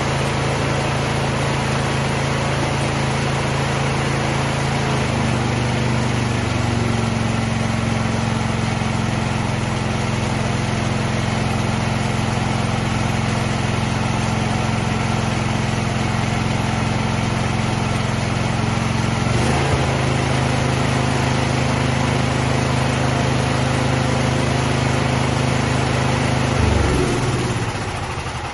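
Cub Cadet snow blower engine running steadily after a restart, with choke and throttle set mid-range. Its speed shifts slightly a few times, and near the end the engine note drops and it begins to wind down.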